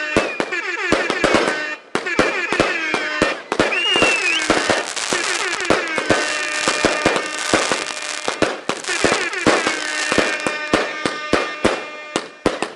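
Fireworks going off in a rapid string of sharp bangs and crackles, mixed with many whistling tones that glide, mostly downward.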